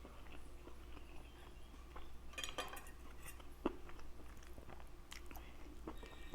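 Close-up chewing and mouth sounds of a person eating, with scattered small clicks and smacks and a brief cluster of sharper sounds about two and a half seconds in.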